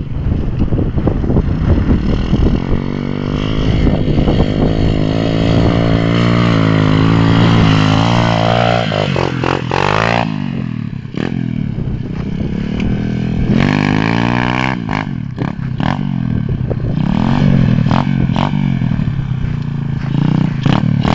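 125 cc dirtbike engine being ridden and revved. Its note climbs steadily over several seconds, drops sharply about halfway through as the throttle comes off, then rises and falls again in shorter swells.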